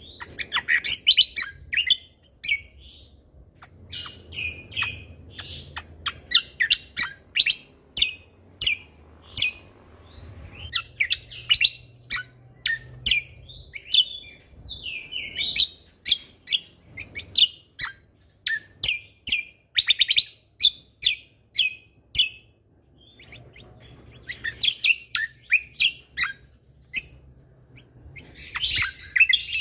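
Cucak kombo (greater green leafbird) singing a busy, loud song of rapid, sharp whip-like notes mixed with chattering phrases, broken by a few short pauses.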